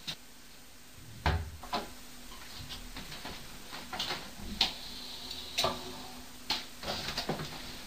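Irregular sharp household knocks and clicks, about ten of them spread unevenly over several seconds, the loudest about a second in, with a faint steady hum underneath.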